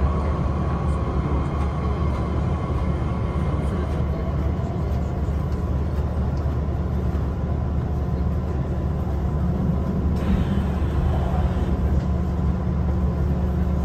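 Hankyu 2300 series electric train running, heard from inside the passenger car: a steady rumble of wheels and running gear on the rails, with a faint steady whine.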